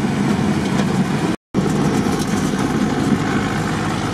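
Off-road vehicle's engine running and road noise, heard from inside the cabin while driving on a dirt road. The sound drops out completely for a split second about one and a half seconds in.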